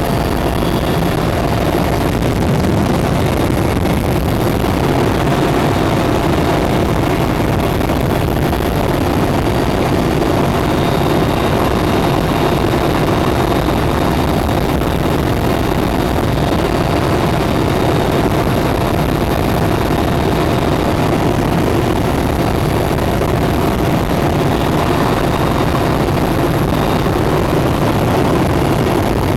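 Mi-8 helicopter's twin turboshaft engines and main rotor heard from inside the cabin in steady flight: a loud, even noise with a faint steady whine in it.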